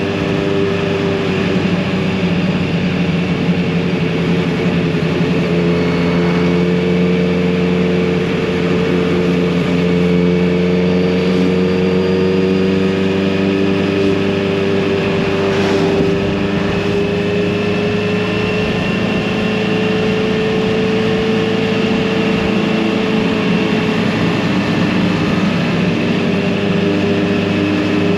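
Kawasaki Z900RS inline-four engine and exhaust at a steady cruise, the pitch drifting gently up and down with small changes in throttle.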